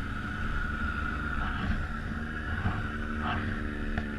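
Can-Am Outlander 800 ATV engine running steadily under throttle, its pitch slowly rising.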